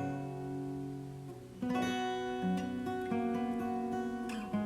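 Gentle acoustic guitar music: sustained plucked notes, with a new chord about a second and a half in.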